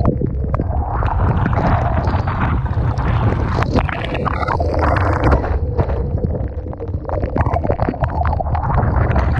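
Typhoon wind buffeting the microphone in a heavy low rumble, over the rush of storm surge and waves crashing ashore, with many sharp splashes throughout.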